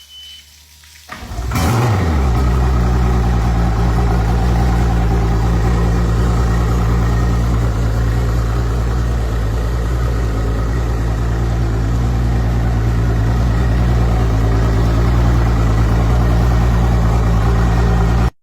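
Mercury 300 Pro XS outboard engine starting about a second in, its pitch sweeping up briefly, then settling into a steady idle.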